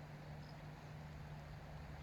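Faint outdoor ambience: a steady low hum over a soft rumble, with one short high chirp about half a second in.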